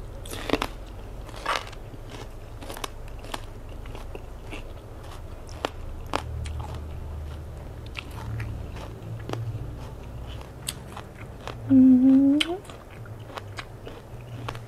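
Crunching and chewing a crisp raw vegetable, with many sharp crackling bites. About twelve seconds in comes a short hum of voice that rises in pitch, the loudest sound.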